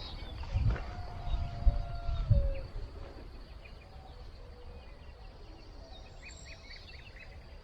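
Outdoor farm ambience: a few low thumps in the first couple of seconds, then a quieter steady background with a short run of small bird chirps near the end.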